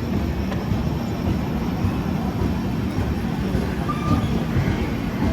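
Express passenger train running along the track: a steady rumble of wheels on rails, with a brief high tone about four seconds in.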